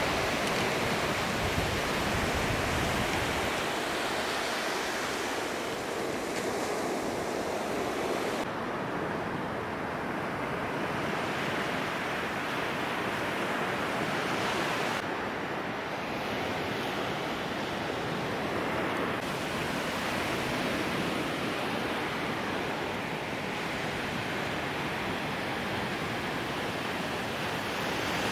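Ocean surf washing onto a beach: a steady wash of breaking waves, with wind buffeting the microphone in the first few seconds. The sound changes abruptly in brightness a few times.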